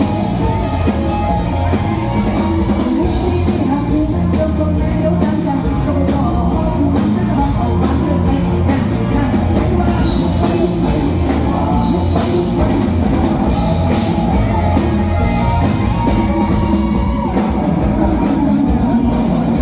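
Thai luk thung band playing live through a PA, the drum kit keeping a steady beat under the full band.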